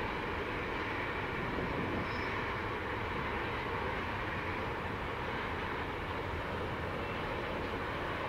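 Long freight train of container wagons rolling past: a steady, even noise of steel wheels on the rails.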